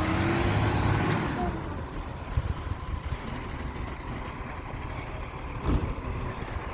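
Garbage truck's horn honking, cutting off about a second in, then the truck's engine running with a faint high squeal.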